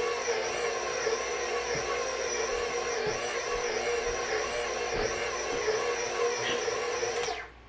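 Electric mixer motor running steadily while mixing bread dough, then switched off and cutting out suddenly near the end.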